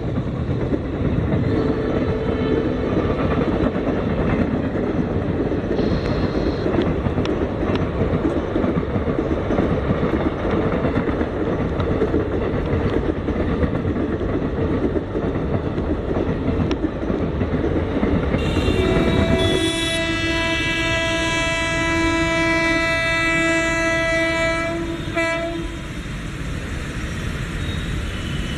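Indian Railways train running, with a steady rumble and wheel clatter. About two-thirds of the way through, a train horn sounds one long steady blast for about six seconds, then cuts off.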